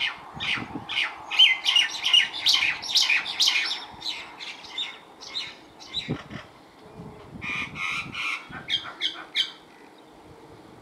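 Birds calling: a rapid run of short, harsh chirps and squawks over the first four seconds, and another burst about seven to nine and a half seconds in.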